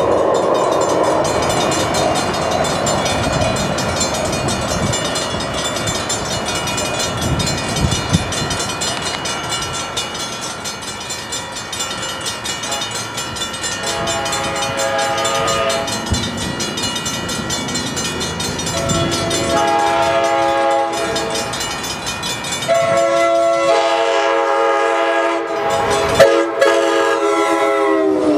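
Passenger train running along the rails, its rumble fading over the first dozen seconds. Then a train horn sounds several blasts from an approaching Amtrak Surfliner, the last one held for several seconds and dropping in pitch near the end as the train passes.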